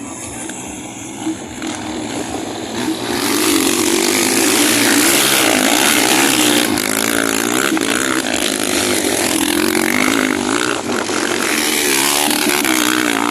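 Motocross motorcycles racing on the track, their engines revving up and down with the gear changes. They get much louder about three seconds in as the bikes come close.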